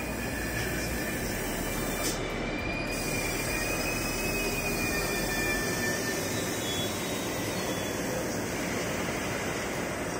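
ICE high-speed train rolling slowly into the platform and drawing to a stop, with a thin, high squeal that wavers a little in pitch over a steady rumble. The squeal fades out after about seven seconds.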